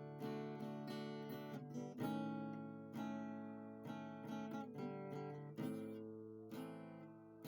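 Background music: acoustic guitar playing plucked and strummed chords, each struck note ringing and fading.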